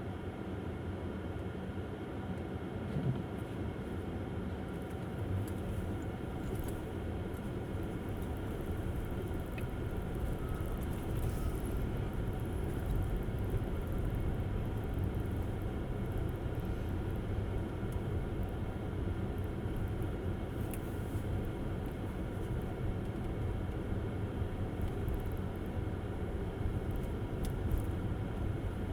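Steady low rumble of tyre and road noise from a Tesla Model S driving on a snow-covered road, with a brief hiss now and then.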